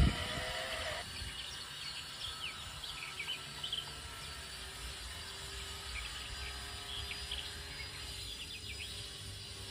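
Outdoor background noise, a steady low rumble and hiss, with scattered short bird chirps. A faint whine that carries over from just before stops about a second in.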